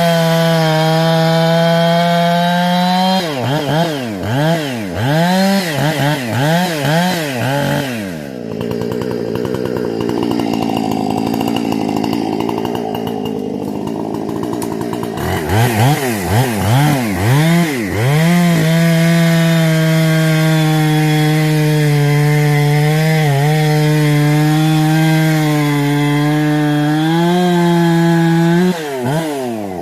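Carb- and muffler-modified Husqvarna 460 two-stroke chainsaw running at high revs, then blipped up and down several times. It drops to a lower, rougher run in the middle, is blipped again, holds a long steady high-rev run, and falls off near the end.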